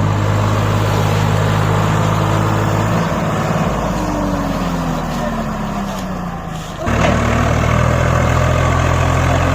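Swaraj 744 FE tractor's diesel engine running loud and steady under load. From about four seconds in its pitch falls and it grows a little quieter, then about seven seconds in it is suddenly back at full, steady running.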